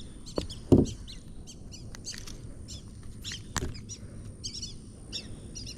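Wild birds chirping and singing in short repeated notes, with a few clicks and a dull knock about a second in, the loudest sound.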